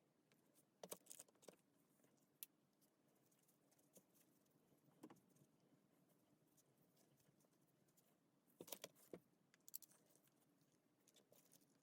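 Near silence broken by scattered faint clicks and light taps of small objects being handled, in a cluster about a second in and another around nine seconds in.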